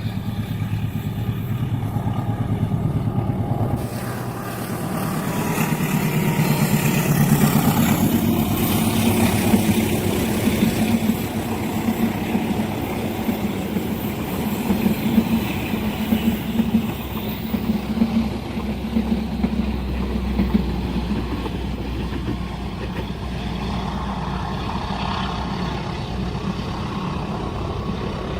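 Diesel-hauled passenger train passing: the locomotive's engine running, then a long steady rumble and clatter of the carriages' wheels on the rails, settling into a deep rumble near the end.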